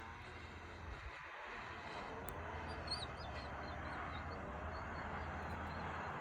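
Car driving, a steady low rumble with road noise, with a few faint high chirps about three seconds in.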